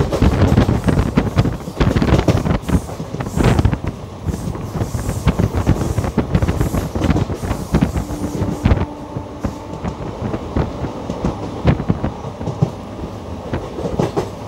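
Passenger coach of an Indian express train running at speed, heard from on board: steady rumble with wheels clattering irregularly over rail joints, and air rushing past. A faint steady tone sounds for about two seconds partway through.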